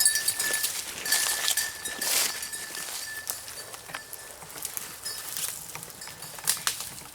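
Irregular crackling and rustling of footsteps moving through brush and dry leaves, with a light metallic clinking.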